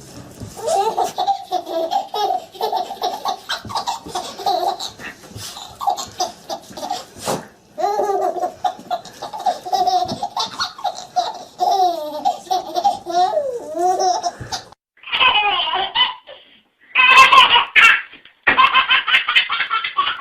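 Baby laughing hard in repeated fits. About fifteen seconds in, after a brief gap, higher-pitched squealing laughter follows.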